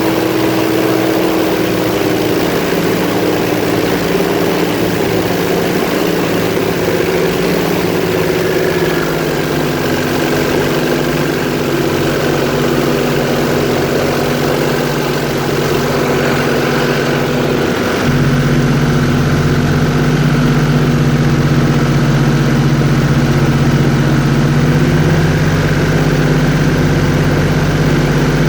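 Airboat engine and air propeller running steadily. The engine note shifts a couple of times, then it gets louder with a deeper rumble about eighteen seconds in.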